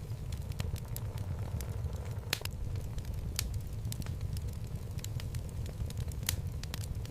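Wood fire burning in a fireplace: a steady low rumble of flames with irregular sharp crackles and pops from the logs, two louder pops about two and a half and six seconds in.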